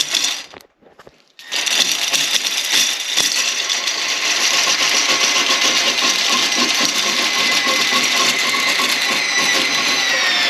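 Electric drain snake's motor spinning its cable down a toilet drain to clear a suspected clog: a short run, a pause of about a second, then a steady whining run that drops in pitch near the end.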